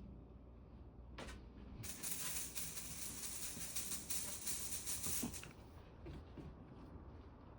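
Sparkly cat teaser rustling and crinkling as a cat bats at it: a short rustle about a second in, then a louder stretch of about three seconds.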